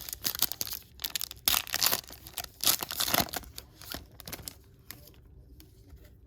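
Wrapper of a football trading card pack being torn open and crinkled. There are two loud rips in the middle, then it settles into faint handling near the end.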